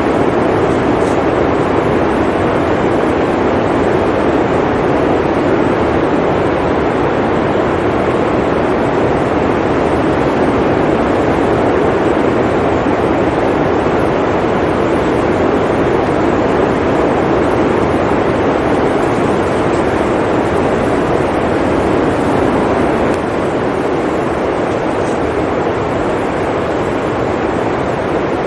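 Steady blizzard wind blowing as an even rushing noise, dropping slightly in level about three quarters of the way through.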